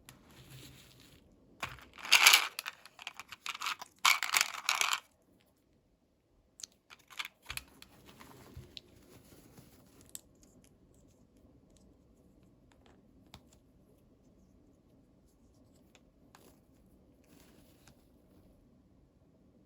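Packaging crinkling and tearing in two loud bursts, about two and four seconds in. After them come scattered small clicks and taps, then only faint occasional ticks.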